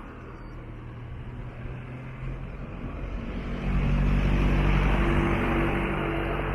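A motor vehicle's engine running close by, its steady low hum growing louder about three and a half seconds in as it draws near.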